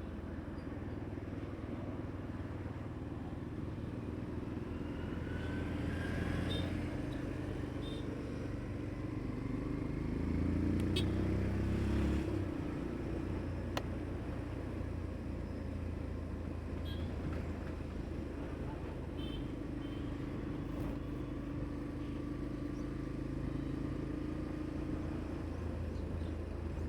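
Motorcycle engine running steadily at highway cruising speed, heard from the moving bike with road and wind noise. The rider says its firing note has changed. The low drone swells louder for a few seconds around ten to thirteen seconds in.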